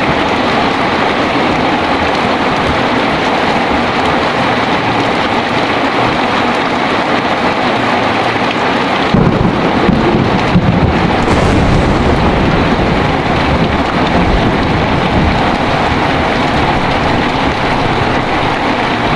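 Heavy rain falling steadily in a thunderstorm. About nine seconds in, thunder breaks with a sharp crack and goes on as a low rumble under the rain.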